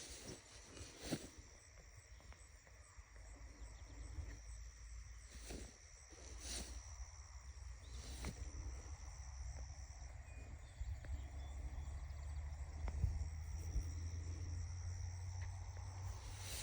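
Outdoor insect ambience: a thin, steady, high-pitched insect drone that fades out about ten seconds in, over a low rumble, with a few short clicks or rustles scattered through the first half.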